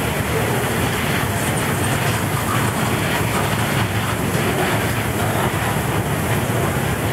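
Rail train's cars, loaded with long strings of rail, rolling past: a steady rumble of steel wheels on the track.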